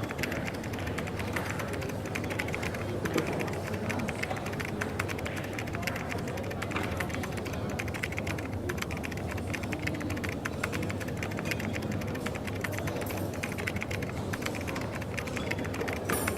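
Rapid, irregular clicking of typing on a computer keyboard over the steady background hum of a coffee shop.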